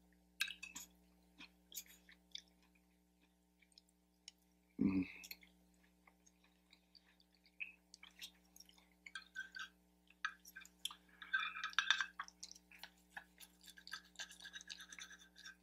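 Close-miked chewing of breakfast food, with small clicks and scrapes of a knife and fork on the plate, busier in the second half. There is a brief louder sound about five seconds in, over a faint steady hum.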